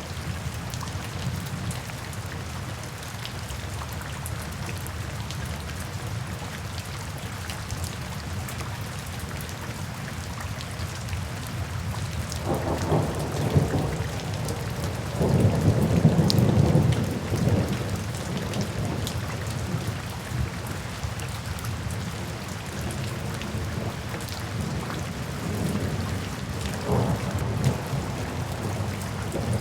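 Steady rain falling, with thunder rumbling in low and loud about halfway through, loudest around the middle, and a fainter rumble near the end.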